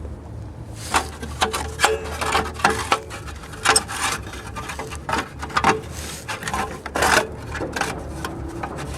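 A torn plastic piece being worked loose and pulled free from the rear of a Nissan Almera N16: irregular scraping and rubbing with short knocks, starting about a second in. This is the part that was rubbing and causing the rear squeak.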